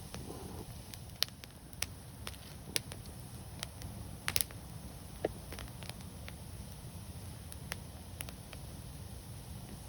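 Wood fire burning, with a steady low rumble and sharp, irregular crackles and pops of the burning logs, about a dozen of them. The loudest come about a second in and as a quick pair just after the middle.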